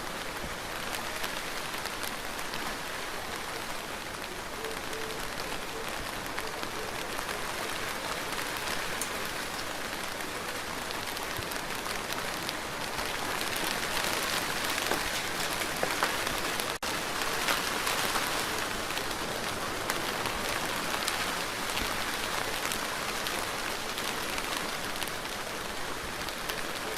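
Steady rain falling on a surface, with many separate drops pattering through the hiss. It grows heavier for a few seconds in the middle and cuts out for an instant about two-thirds of the way through.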